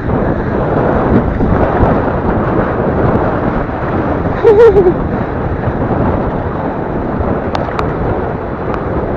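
Steady, heavy wind buffeting on the microphone of a fast-moving rider, with road and traffic noise underneath. A brief shout cuts through about halfway.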